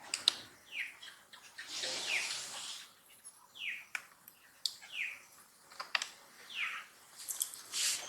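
Baby macaque crying: short, high cries that fall in pitch, about six of them roughly a second apart, with a few sharp clicks between them.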